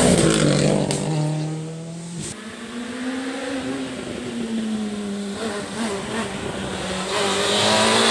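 R5 rally car's 1.6-litre turbocharged four-cylinder engine running hard, then lifting off about a second in with two sharp cracks as it slows for a corner. It pulls through the bend at lower revs, the note rising and falling, and accelerates hard again near the end.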